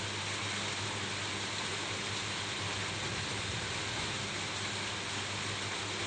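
Steady rain falling on a roof, an even hiss with no change in intensity, over a faint steady low hum.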